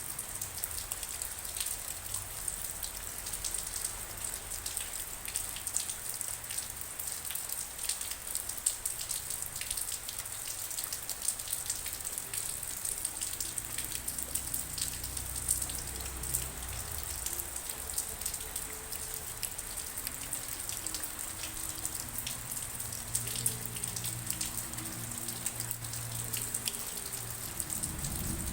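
Steady rain falling, with dense fine pattering of individual drops. Faint low, held tones come and go in the second half.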